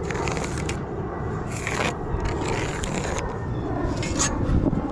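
Rough scraping from work on a shingled roof: several scrapes, each under a second, then a sharp tap about four seconds in, over a steady low rumble.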